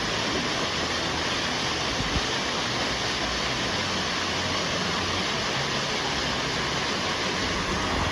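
Waterfall rushing steadily, an even hiss of falling water that holds at one level throughout.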